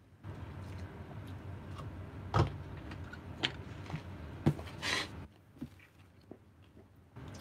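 Close-up chewing of a raw cucumber slice: mouth noise with sharp crunches about a second apart over the first five seconds, then softer chewing near the end.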